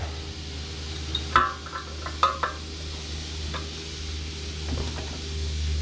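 Hand tools and metal parts clinking: one sharp metallic clank about a second and a half in, then a couple of lighter ringing clinks, over a steady low hum.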